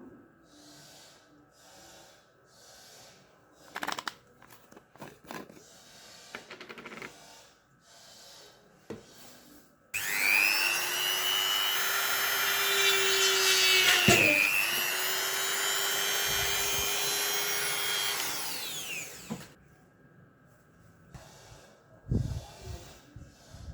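Faint handling and small clicks, then a small electric motor switches on and spins up quickly. It runs with a steady whine for about nine seconds, dips briefly midway, and winds down.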